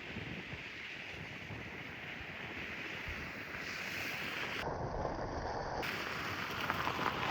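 Strong wind rushing and buffeting the microphone, a steady roar of noise that slowly grows louder.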